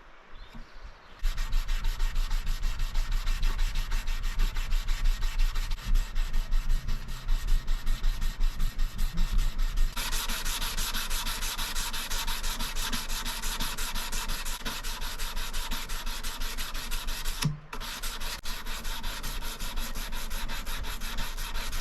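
Sandpaper rubbed by hand along a Damascus steel knife blade in quick back-and-forth strokes, about three a second. About ten seconds in the scratching turns brighter and more even, and it breaks off briefly near the end.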